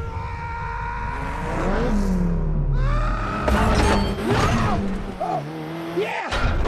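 Action-film soundtrack: a dramatic music score mixed with a car's engine, then a sudden crash about three and a half seconds in, with shattering and tyre skids as the car lands.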